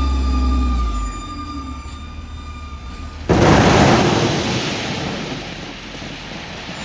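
Wheel loader engine running with a steady whine, easing off about a second in. Then a sudden loud crashing rumble of a bucket load dropping into a dump truck's bed, dying away over a couple of seconds.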